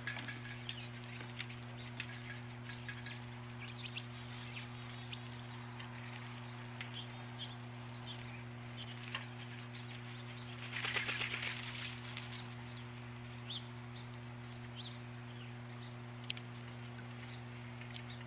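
Small birds calling in short chirps here and there, with a burst of wing flapping a little past halfway, over a steady low hum.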